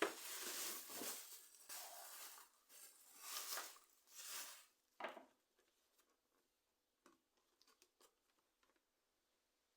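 Packaging being handled and unwrapped, rustling and tearing for about five seconds, then a few small clicks and taps.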